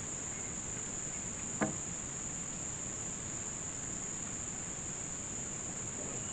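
Steady high-pitched chorus of insects, crickets or similar, with one short sharp knock about a second and a half in.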